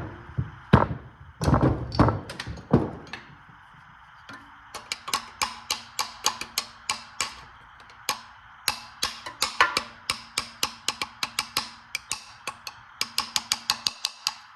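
A few loud metallic knocks, then a ratchet wrench clicking tooth by tooth as it is swung, sharp regular clicks that quicken near the end. It is working a stuck carburetor bolt on a small V-twin engine.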